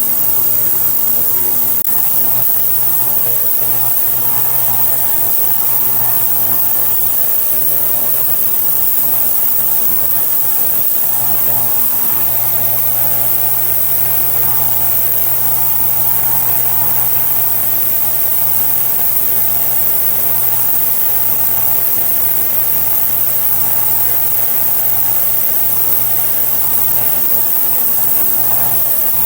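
Ultrasonic cleaner running with a diesel heater part in its heated bath: a steady electrical buzzing hum with an even high hiss, unchanging throughout.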